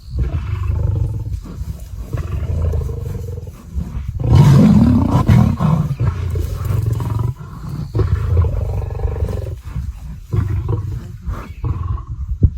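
Lions roaring and snarling in a fight, deep and rough, with the loudest outburst about four seconds in.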